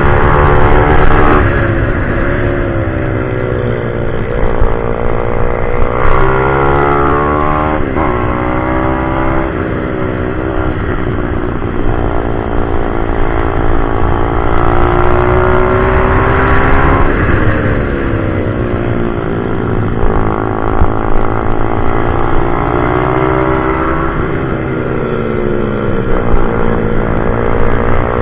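Pit bike's small single-cylinder four-stroke engine running hard, its pitch climbing and dropping again and again as the rider accelerates out of corners and brakes into them.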